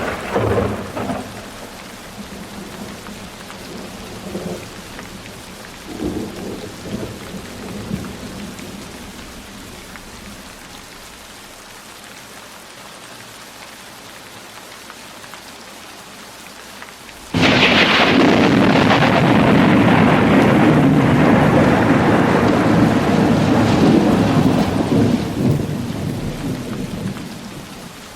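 Steady rainfall in a thunderstorm. A rumble of thunder fades over the first few seconds, then a sudden loud thunderclap breaks about 17 seconds in and rolls on for about ten seconds before fading back to the rain.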